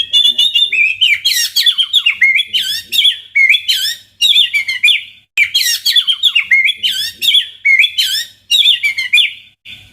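White-rumped shama (murai batu) song: fast, loud runs of sharp chirps and whistles, in phrases that stop abruptly as if spliced. It is a trigger recording played to set off a shama that has gone quiet or is stressed.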